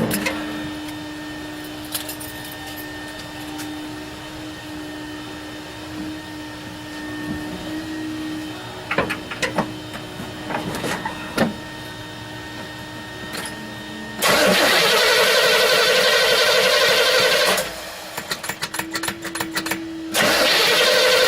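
Starter cranking the cold Oldsmobile 403 V8 of a 1970 Cutlass: one steady crank of about three and a half seconds that stops, then a second crank starting near the end. Before the cranking there is only a faint steady hum and a few clicks.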